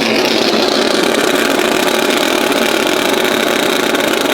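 A truck's engine running loud and steady, holding an even pitch without rising or falling.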